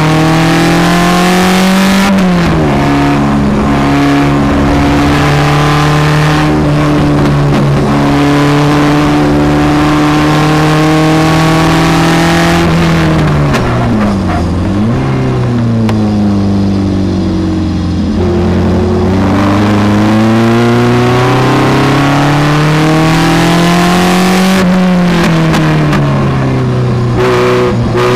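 Onboard engine of a Seven-style open sports car lapping a circuit: the engine note holds high along a straight, drops as the car slows for a corner about halfway through, climbs steadily as it accelerates out, and drops again near the end.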